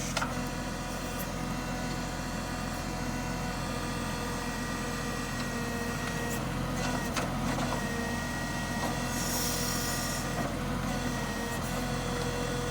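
Excavator engine running steadily, with a few knocks about six to eight seconds in and a brief hiss about nine seconds in.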